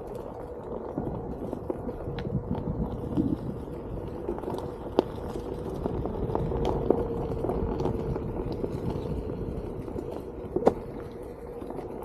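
OneWheel GT riding along a trail: the tyre rumbling on the ground with a steady hum from the hub motor and scattered clicks and knocks over bumps, two sharper knocks about five seconds in and near the end.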